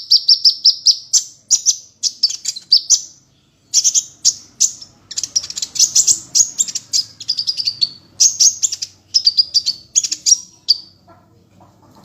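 A songbird singing a high, fast song. It opens with a quick run of repeated chirps, about eight a second, then breaks into bursts of sharp chirps and trills with short gaps, and stops shortly before the end. This is a recorded tutor song of the kind played to train white-rumped shamas.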